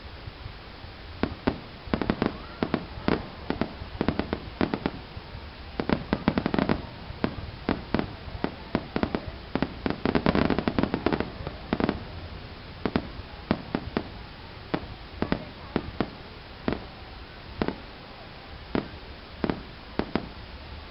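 Fireworks going off: a string of sharp bangs at irregular intervals, coming in dense clusters in the first half and thinning to single bangs about a second apart near the end.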